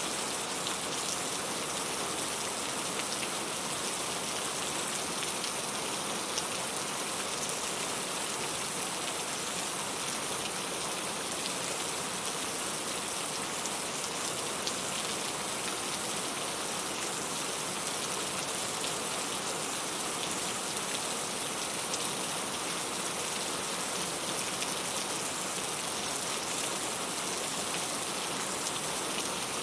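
Steady rainfall, a constant hiss of drops with fine pattering on a surface and no breaks.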